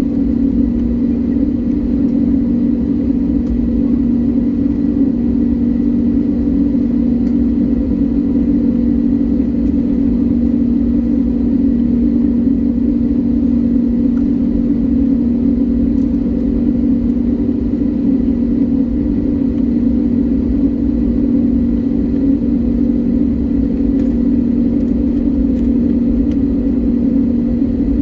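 Airliner engines heard from inside the passenger cabin: a steady, even drone with a faint high whine, neither rising nor falling.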